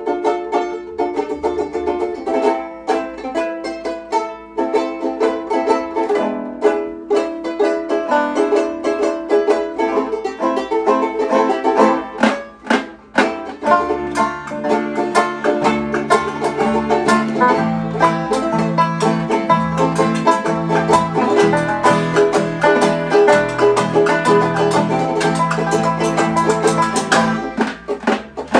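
A band playing a take of an acoustic tune with busy picked strings. A low bass line joins about fourteen seconds in.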